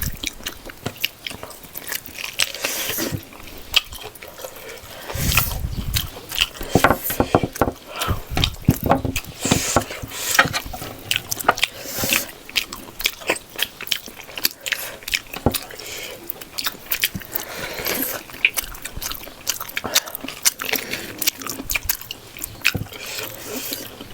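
Close-miked eating of rice with pork leg gravy: wet chewing, lip smacks and many short sharp clicks, with a lower, heavier sound about five seconds in.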